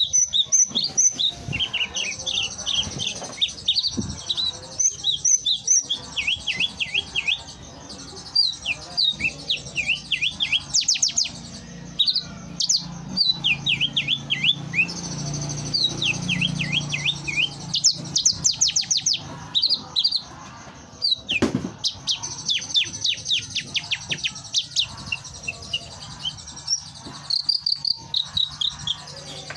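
Javan bush lark (branjangan) in full song, pouring out rapid runs of short, sweeping chirps with barely a pause, with other birds faintly behind it. A faint low hum rises mid-way, and a single sharp click comes a little after halfway.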